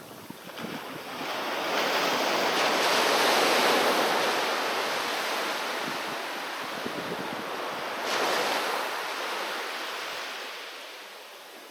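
Sea waves breaking on the shore. A wave builds over the first couple of seconds, then washes out and fades slowly, with a smaller second surge about eight seconds in.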